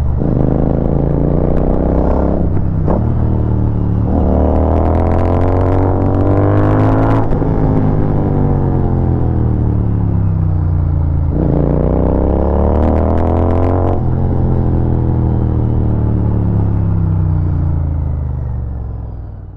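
Royal Enfield Continental GT 650 parallel-twin engine through Barrel Exhaust Atoms slip-on mufflers, revving up under throttle three times with each pull cut off sharply. After the cut-offs the engine note falls away slowly as the bike slows, then the sound fades out at the end.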